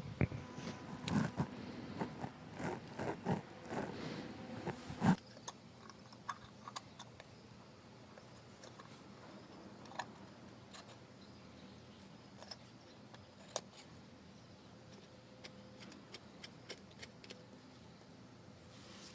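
Small metal carburetor parts and hand tools clinking, knocking and scraping as they are handled, busy for about five seconds, then only scattered faint clicks.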